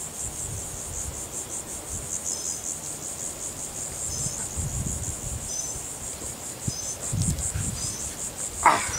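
A cricket chirping in a fast, steady pulsing trill, with a few soft low thumps of handling near the middle.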